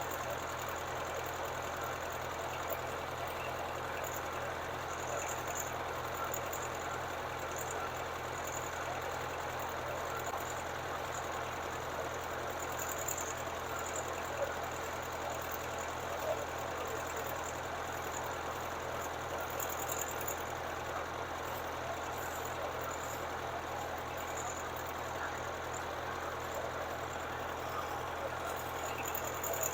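Well-drilling rig's engine running steadily with an even low pulsing, as the newly drilled well is flushed and water flows from the pipe.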